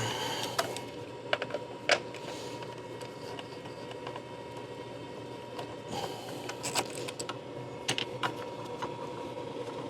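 Scattered light clicks and taps of hand tools and parts being handled while a compression tester is fitted to an engine cylinder, over a steady hum.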